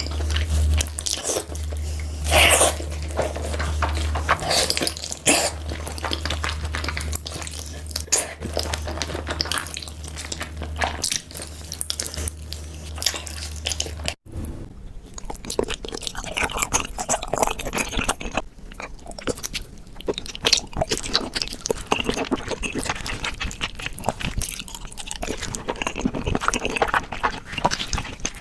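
Close-miked chewing and biting of cooked beef feet, many quick wet mouth clicks. A steady low hum lies under the first half and stops at an abrupt cut about halfway through, after which the chewing continues without it.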